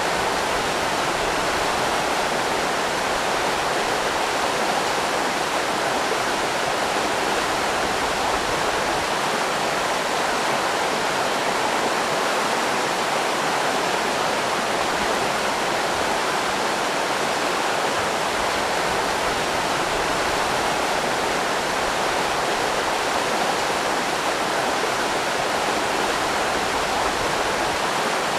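River rapids rushing steadily, a dense even water noise with no breaks.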